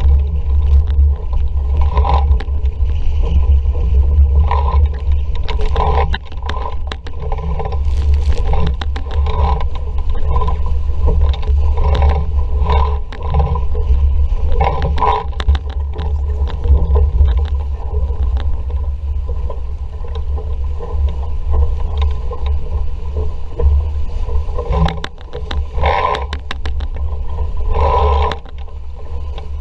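Wind buffeting the microphone as a heavy, steady rumble, with water rushing and slapping irregularly against the hull of a sailing dinghy under way in a breeze.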